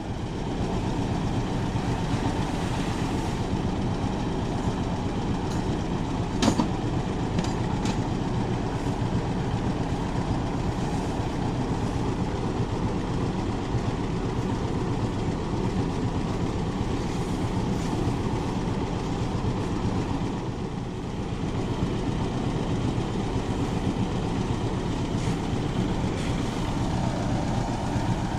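Old-style engine-driven rice threshing machine running steadily, with one sharp knock about six and a half seconds in.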